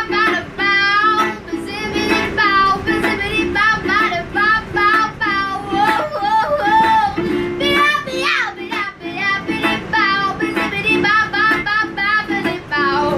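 A young girl singing a country-blues song with vibrato over a strummed ukulele, with a quick sliding vocal run about eight seconds in.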